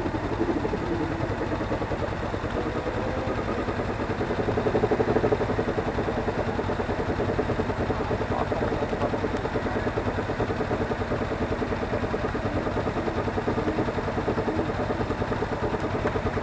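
Suzuki V-Strom 250's parallel-twin engine running steadily, a little louder about four to five seconds in.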